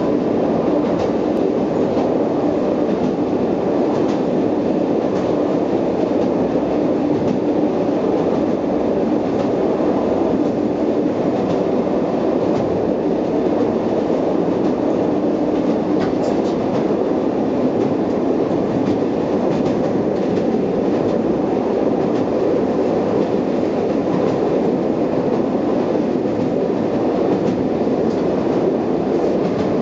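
Passenger train running steadily over a steel truss railway bridge, heard from inside its front cab: an even rumble of wheels on the rails with faint scattered clicks.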